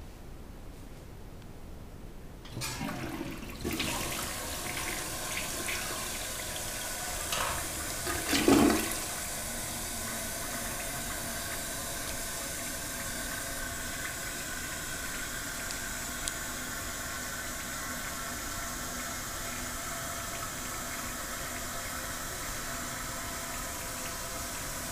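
Duravit one-piece toilet flushed with its push button, 1.6 gallons (6 litres) per flush. Water rushes into the bowl about two and a half seconds in and surges loudest about six seconds later. After that the tank refills with a steady hiss and a faint steady whine from the fill valve.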